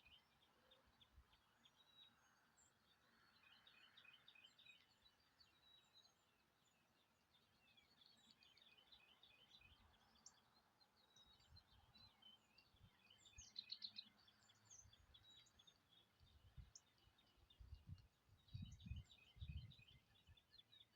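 Faint wild birdsong: small birds chirping in quick repeated trills and phrases, with a few brief higher notes. Several low thuds come in near the end.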